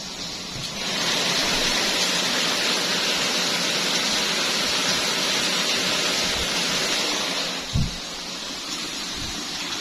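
Heavy rain pouring down in a storm: a steady loud hiss that swells about a second in and eases a little near the end, with one short low thump shortly before it eases.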